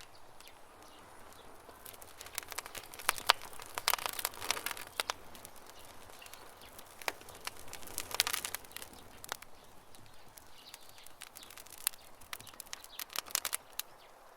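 Wood campfire crackling, with clusters of sharp pops and snaps coming and going in bursts, and birds chirping faintly in the background.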